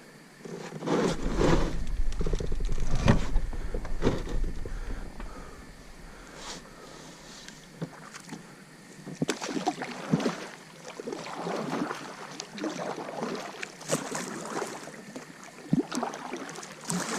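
Water splashing around a kayak, with irregular knocks. A low wind rumble on the microphone sounds for the first few seconds.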